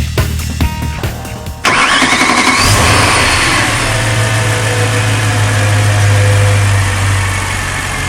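A freshly rebuilt BMW S65B40 4.0-litre V8 starting for the first time: about a second and a half in it cranks and catches with a rising whine, then settles into a steady idle.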